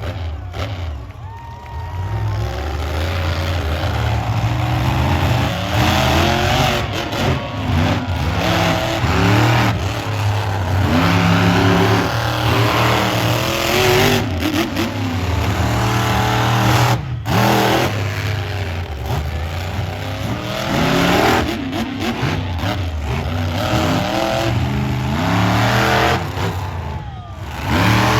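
Monster truck engine revving hard over and over, its pitch rising and falling as the throttle is worked during a run.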